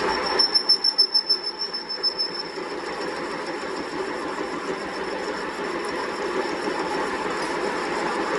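Steady workshop machine noise, with a fast, regular pulsing and a high whine for the first two seconds or so before it settles into an even running sound.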